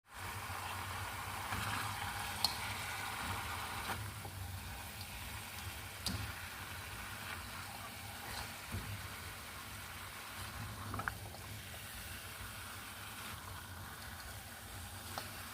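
Food cooking in a pan on the stove: a steady sizzling hiss over a low hum, with a few sharp clicks scattered through it.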